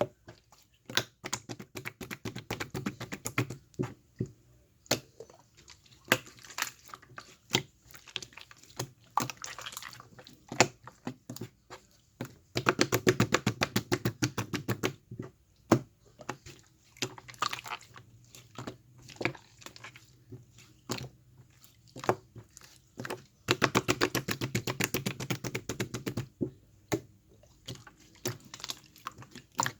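Hands squishing, poking and folding slime, making sticky clicking and popping sounds. There are two longer runs of rapid, dense clicking, one just before halfway through and one about four-fifths of the way in.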